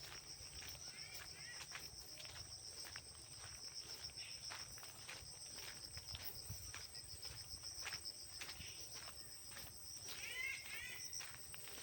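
Insects trilling steadily in a high, pulsing drone, with irregular footstep-like clicks throughout and a few short chirps about a second in and again near the end.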